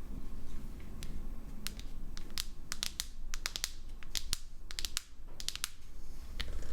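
Irregular sharp clicks and light snaps of small tools and phone parts being handled during a smartphone teardown, thickest through the middle.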